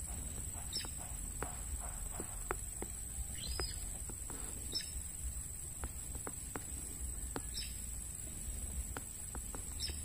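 Quiet outdoor ambience: a few short, high bird chirps spaced a couple of seconds apart over scattered faint ticks, with a steady high-pitched whine underneath.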